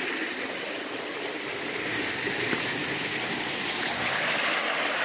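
Small waterfall pouring into a shallow pool, a steady rush of falling and splashing water.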